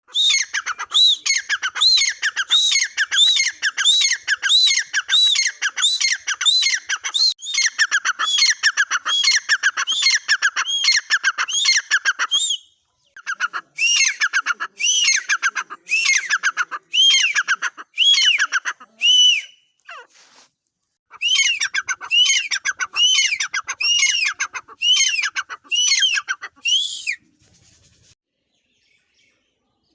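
A teetar (francolin) calling: a fast, loud series of repeated shrill arching notes, about two a second. The calling breaks off briefly halfway through, resumes in two more bouts, and stops a few seconds before the end.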